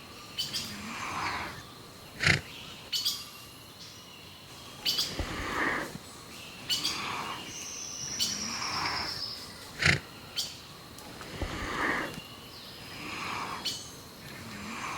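Birds calling and chirping, a call repeating about every one to two seconds, with sharp clicks between calls and one high whistle sliding down in pitch about eight seconds in.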